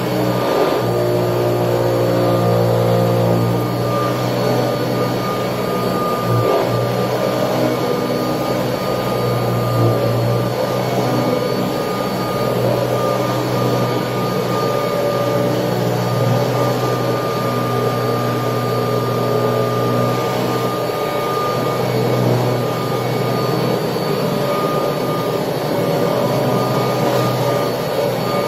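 1979 Kirby Tradition upright vacuum cleaner running steadily while vacuuming, a steady high whine over the motor hum, with small shifts in pitch as it works.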